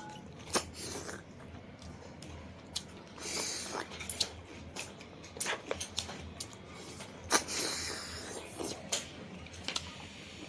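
Close-up eating sounds: sharp crunching clicks of chewing and a few short slurps, at about three and a half seconds in and again near eight seconds, typical of sucking snails out of their shells.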